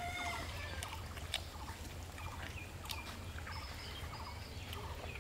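Chewing and mouth smacks from people eating burgers, heard as scattered short clicks over a steady low hum, with faint bird calls behind.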